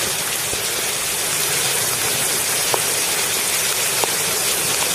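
Heavy rain pouring down and hitting pavement, a steady hiss with a few sharper single taps.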